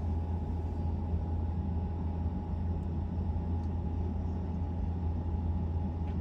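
Steady low road and tyre rumble inside the cabin of a moving Tesla Model Y, with a faint steady high tone above it.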